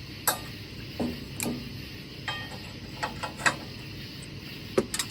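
Scattered light clicks and knocks, about ten in all and irregularly spaced, of hand tools and parts being handled while a new valve stem is fitted at a manual tire machine.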